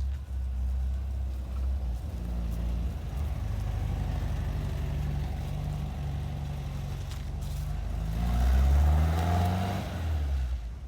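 Porsche 356 Vintage Speedster's air-cooled flat-four engine running at a steady idle after warming up, then revved once near the end, the pitch rising and falling back.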